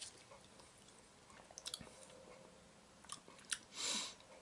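A person chewing food quietly, with small wet mouth clicks, and a short breathy hiss about four seconds in.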